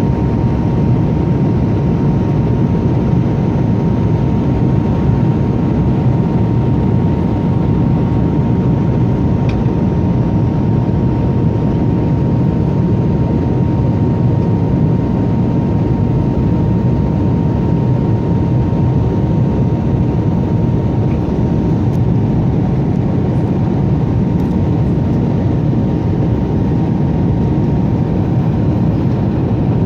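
Airliner cabin noise: a steady rush of engine and airflow noise with a constant high whine running through it.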